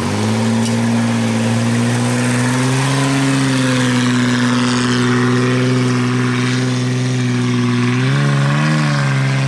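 Off-road 4x4's engine held at high, steady revs under load as it climbs. The pitch wavers briefly near the end, then the engine drops off.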